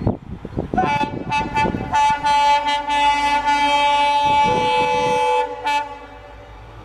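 Air horn of a WDP-4D diesel locomotive sounding a few short broken notes and then one long blast of several tones together, which cuts off about six seconds in. Low rhythmic knocking of the train is heard underneath in the first two seconds.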